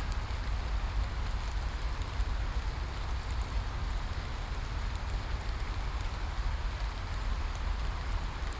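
Steady rain falling, an even hiss with a deep rumble underneath and scattered sharp drop ticks.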